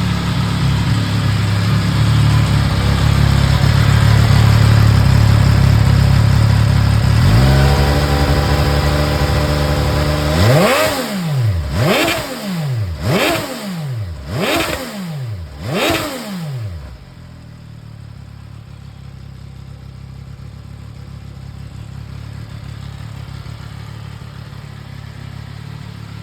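MV Agusta F3 675 Serie Oro's 675 cc inline three-cylinder engine through its stock exhaust. It runs steadily, drops to a lower idle about seven seconds in, and is then blipped five times in quick succession, each rev rising and falling. It then idles more quietly.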